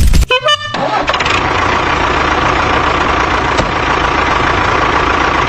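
An engine running steadily at an even pitch, after a brief loud clattering start in the first second.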